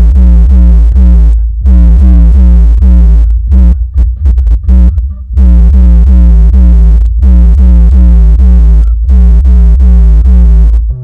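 Loud electronic music with a heavy, deep bass and a fast repeating synth pattern, played through a car sound system of two 12-inch subwoofers and a horn tweeter. The beat drops out briefly several times, longest around four seconds in.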